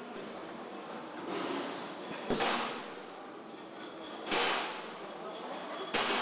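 Factory assembly-line noise: three sharp knocks about two seconds apart, each trailing off in a short hiss, over a steady hum of machinery.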